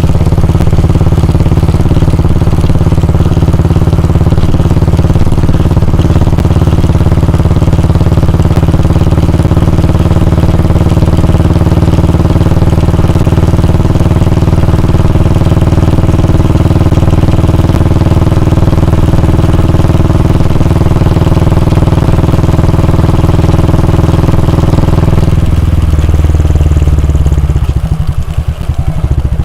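Royal Enfield Bullet 350's 349 cc air-cooled single-cylinder engine running loudly at a steady, unchanging speed. Near the end it eases off, and the exhaust breaks into separate, slower thumps.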